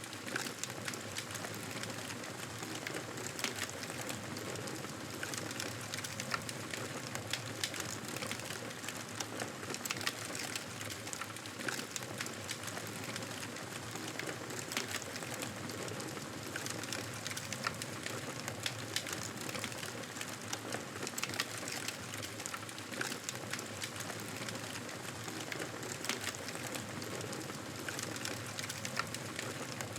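Wood fire crackling in a fireplace: a steady hiss dotted with frequent small sharp pops.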